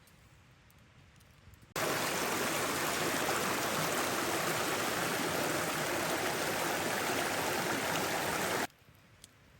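Rushing water of a mountain river or waterfall, a loud steady roar that comes in suddenly about two seconds in and stops just as suddenly about a second before the end.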